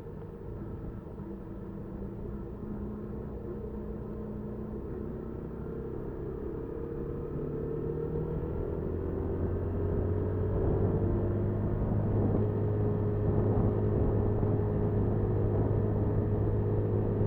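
Engine and road noise of a Honda Super Cub 50, recorded by its dashcam and played back sped up, a steady rumble with a droning tone that slowly rises in pitch and grows louder from about halfway through.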